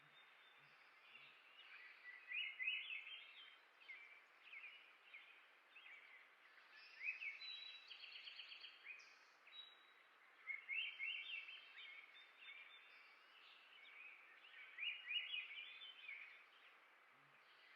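Songbirds singing: short phrases of quick, rising chirping notes that come every few seconds over a faint background hiss.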